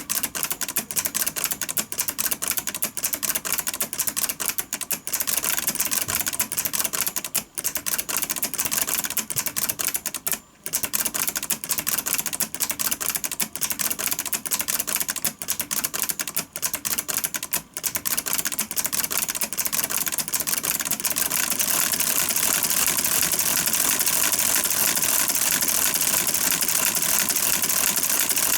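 Two-stroke V8 engine running, its firing pulses heard as a rapid train of sharp clicks with a few brief breaks. About two-thirds of the way in the clicks merge into a steadier, continuous run.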